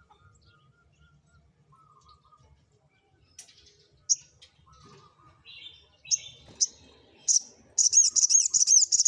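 Songbird singing: a few seconds of quiet, then short sharp high chirps that grow louder, breaking near the end into a fast, loud, warbling trill.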